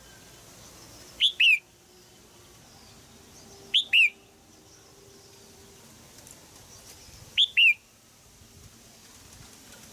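Female red-whiskered bulbul giving sharp 'jiak' calls: three quick pairs of notes, each note dropping in pitch, a few seconds apart.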